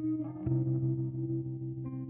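Background music: sustained, guitar-like chords, the chord changing about half a second in and again near the end.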